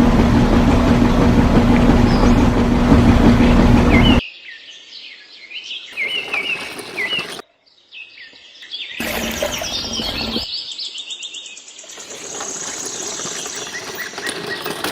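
A machine running with a steady low hum, which cuts off abruptly about four seconds in. Birds then chirp in short stretches that start and stop abruptly.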